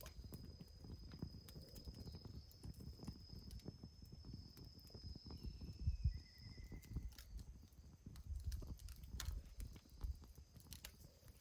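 Wood fire crackling and popping, with irregular sharp clicks over a low rumble. A steady high insect drone stops about two-thirds in and a short bird chirp comes near the middle.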